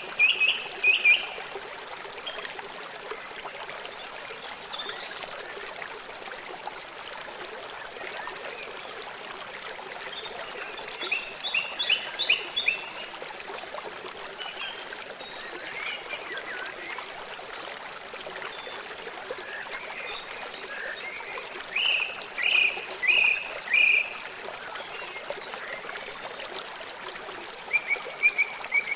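Forest ambience: a steady stream of running water, with birds calling in short series of chirps every several seconds.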